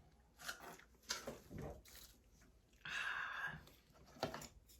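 Small handling sounds at a table while a man drinks a last glass of soju: a few soft knocks and clicks, and a short breathy rushing noise about three seconds in.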